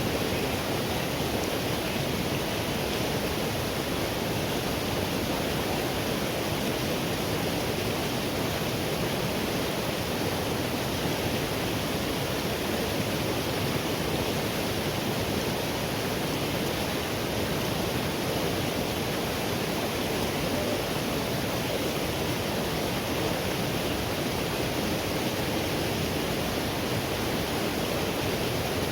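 River water rushing steadily, an even unbroken sound of flowing water with no separate splashes or changes.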